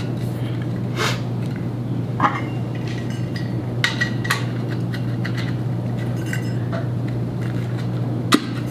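Metal parts of a monitor mount clinking and knocking as VESA plates are slid onto the ends of the arms: a handful of separate sharp clicks, over a steady low hum.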